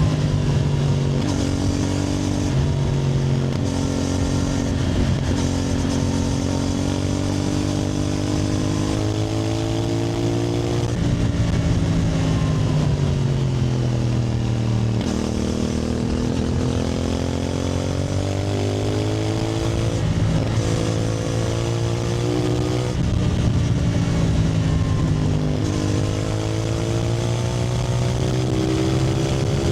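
CFMoto 450NK's parallel-twin engine under way, its pitch rising and falling several times as it pulls through the gears and eases off, with a longer drop in the middle.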